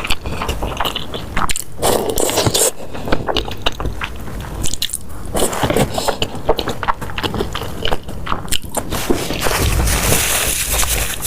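Close-up eating sounds: a person biting and chewing food, with many quick wet clicks and squishes.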